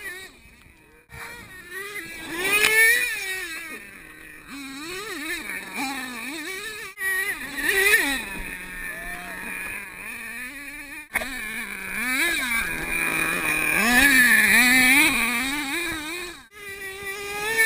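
HPI Savage X 4.6's small two-stroke nitro engine revving up and down over and over as the throttle is worked, with a high buzzing pitch that keeps rising and falling. Its sound drops out sharply a few times, about a second in, near the middle and near the end.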